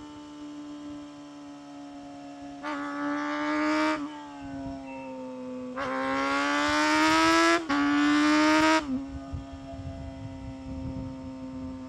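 Honda CBR250RR MC22's 250 cc inline-four engine on the move, opened up twice, about 3 and 6 seconds in, its high pitch climbing under throttle. In the second run the pitch dips briefly once, like a quick upshift. In between and near the end it runs steadier and quieter off the throttle.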